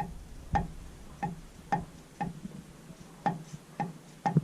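A control arm's ball joint clicking sharply as it is rocked by hand in its loose rivets, about two clicks a second with a short metallic ring. The play between the ball joint and the riveted arm is the source of the knocking from the front right suspension.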